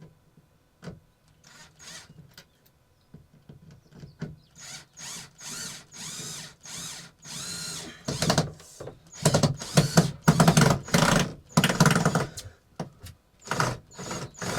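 Power drill driving screws into the shed's wooden panels in a series of short whirring bursts. The bursts start faint and get louder and longer about eight seconds in.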